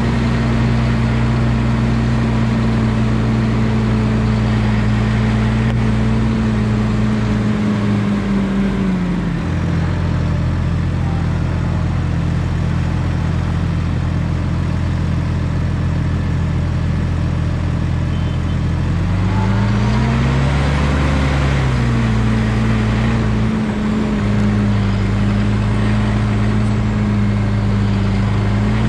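Valtra T234 Direct tractor's six-cylinder diesel engine running steadily. Its speed drops about nine seconds in and holds lower, then briefly rises and falls again just before settling back at the higher steady speed.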